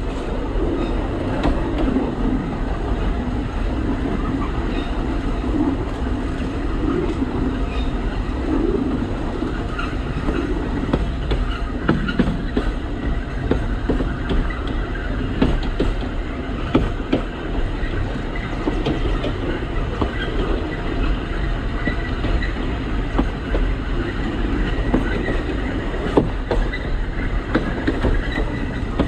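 Narrow-gauge Alishan Forest Railway train running, a steady rumble with irregular clicks of the wheels over the track and a faint wheel squeal now and then.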